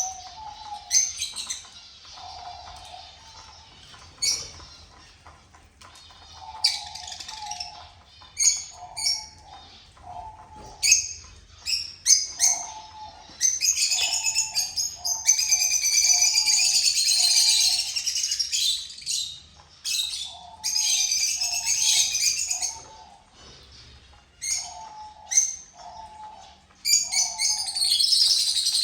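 Many small cage birds chirping and twittering together, with dense bursts of song about halfway through and again near the end. Under them, a lower short call repeats about once a second.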